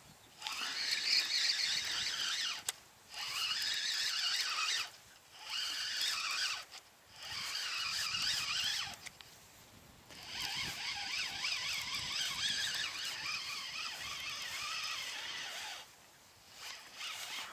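Fishing reel being cranked in several spells of a few seconds each, giving a high whirring squeal with short pauses between spells, as a hooked fish is reeled in.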